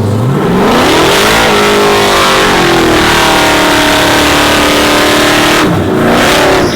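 Race truck engine revving up hard from idle within about a second and held at high revs for several seconds, then dropping off and revving again briefly near the end.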